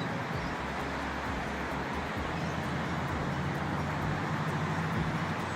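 Steady outdoor background rumble, like distant road traffic, with a low steady hum joining a little over two seconds in.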